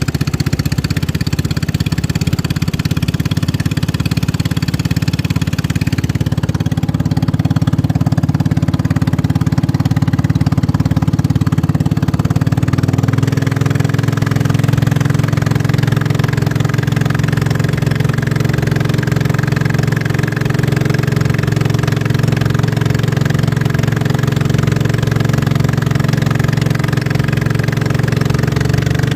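Racing boat's engine running steadily. Its pitch steps up a little about halfway through and then holds.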